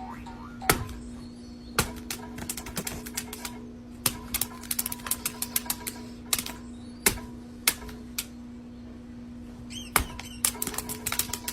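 Irregular sharp clicks and taps, some in quick runs, over a steady low hum.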